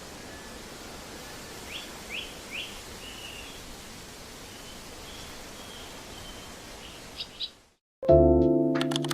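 Steady outdoor background noise with a few short bird chirps and a brief trill in the first half. The sound cuts out near the end and piano music begins.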